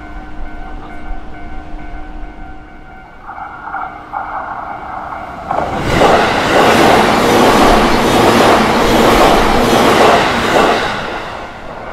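A JR Nanbu Line electric train passes the level crossing at speed, starting about five seconds in, with a loud rush and a rhythmic clatter of wheels, fading near the end. Before it arrives, steady ringing tones, typical of the crossing's warning bells, are heard.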